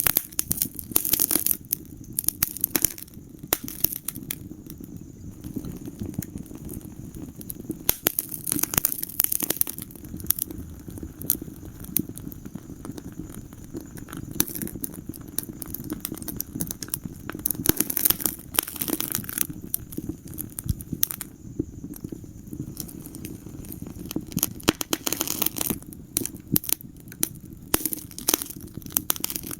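Wood fire burning in a fireplace: a steady low rumble of flames under irregular sharp crackles and pops, which come thicker in several short flurries.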